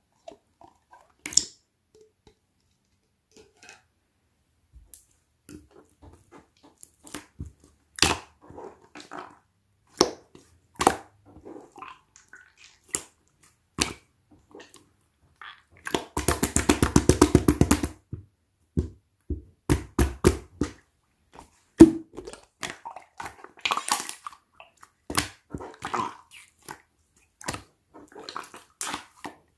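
Purple slime being squished and poked by hand, making sticky clicks and air-bubble pops. About halfway through there is a quick run of rapid popping that lasts about two seconds.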